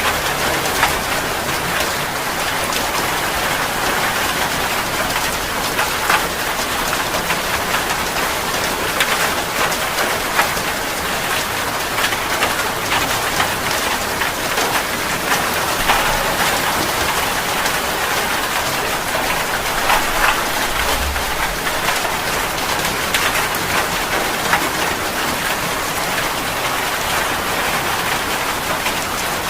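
Heavy rain falling steadily, with a dense patter of individual drops striking close by.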